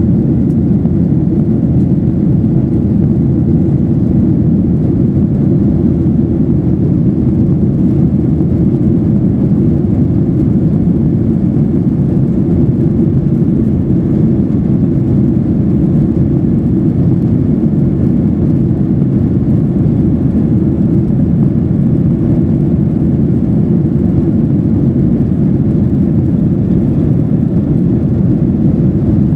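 Steady low rumble inside the cabin of a Boeing 737-800 in flight: engine and airflow noise.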